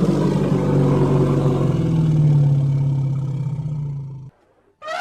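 Elephant's long, low call with a fast pulsing texture, wavering slightly in pitch and cutting off sharply about four seconds in. A rooster's crow starts just at the end.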